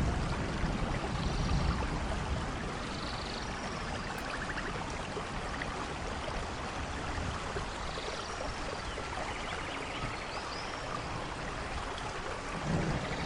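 Steady rainfall. A low thunder rumble fades out over the first couple of seconds and another builds near the end, with a few faint high chirps scattered through.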